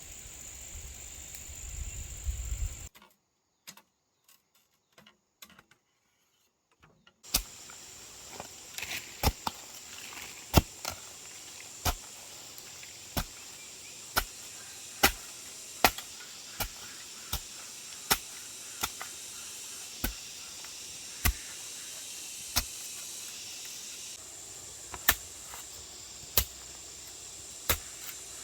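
Hand-tool strikes on bamboo: a run of sharp, separate knocks, roughly one a second and unevenly spaced, starting after a stretch of near silence, over a steady high drone of insects.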